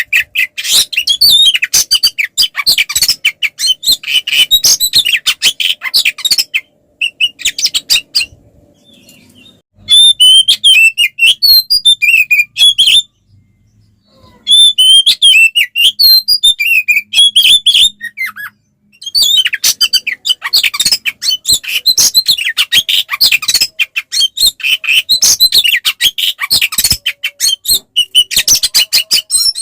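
Oriental magpie-robin (kacer) singing hard and fast in an aggressive fighting mood: a loud, rapid stream of chattering and whistled notes. It breaks off briefly a few times.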